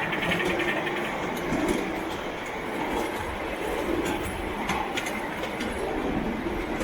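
A train running along its track, the wheels clicking over the rails now and then.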